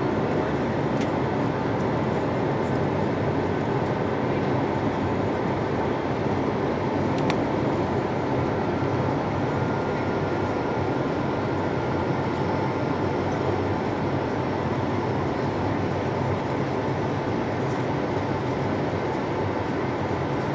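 Airbus A220-300 cabin noise heard from a window seat: the steady rush of airflow and engine noise, unchanging in level, with a faint click about seven seconds in.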